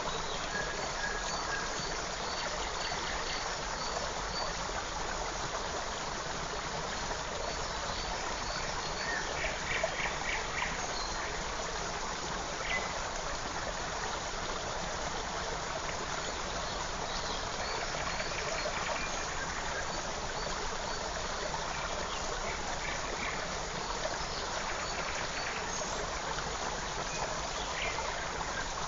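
Steady rush of a forest stream, with small birds calling now and then in short high notes above it, including a quick run of notes about a third of the way in.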